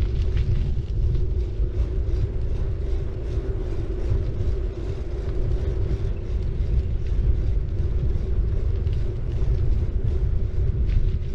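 City bike rolling along the road: a steady low rumble of tyres and riding noise, with a steady hum and many faint, fast ticks over it.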